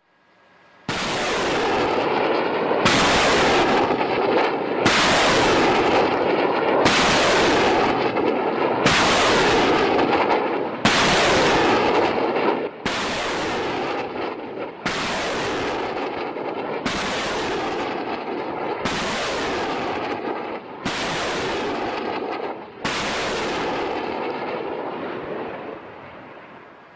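Turkish ÇNRA multiple-barrel rocket launcher firing a ripple salvo: about twelve rockets launched one after another, roughly every two seconds. Each launch is a sudden blast followed by the rushing noise of the rocket motor, and the last one fades away near the end.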